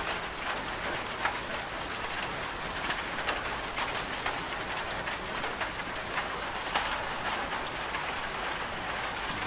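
Steady rain falling, an even hiss with many separate drops ticking against a hard surface.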